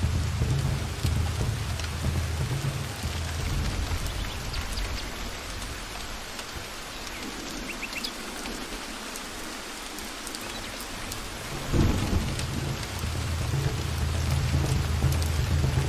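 Steady rain falling in a forest, with low rolling thunder. The rumble dies away about five seconds in and returns with a sudden loud clap about twelve seconds in.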